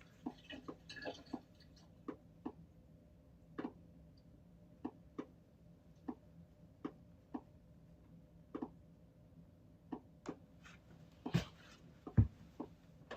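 Scattered light clicks and taps at irregular spacing, about one or two a second, over a faint steady hum, with two louder knocks near the end.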